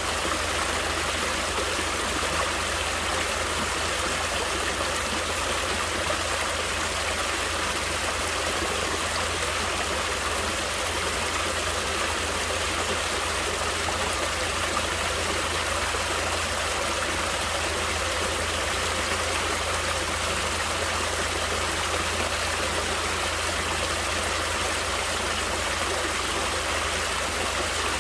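Flowing stream water running in a steady, unbroken rush, with a constant low rumble underneath.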